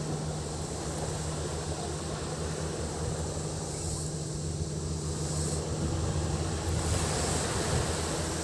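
Waves washing on a beach with wind, under a steady low engine hum and a steady high cicada buzz.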